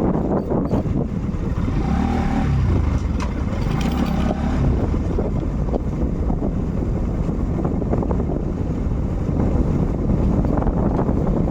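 Motorcycle running at road speed on a ride, its engine and the rush of wind on the rider's microphone making a steady, loud noise.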